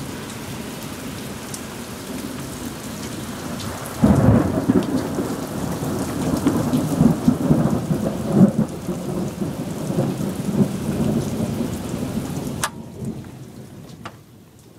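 Heavy rain pouring steadily in a severe thunderstorm; about four seconds in, a loud clap of thunder breaks into a deep rumble that lasts about eight seconds. Near the end the sound drops away sharply after a click.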